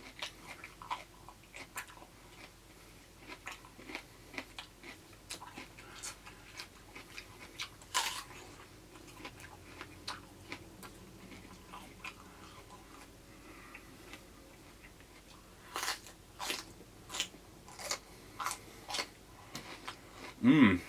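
Close-miked biting, crunching and chewing of raw crunchy produce such as apple, green pepper or cucumber, as a string of sharp crackly crunches. There is a strong one about 8 seconds in and a run of them near the end, followed by a short, loud low sound from the eater.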